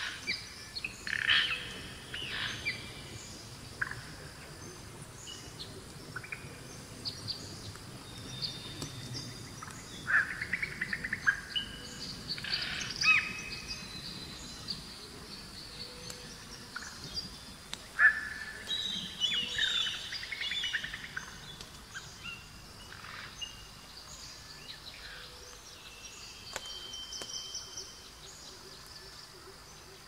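Several wild birds singing and chirping in short, scattered calls and phrases, some sharp and loud, others faint.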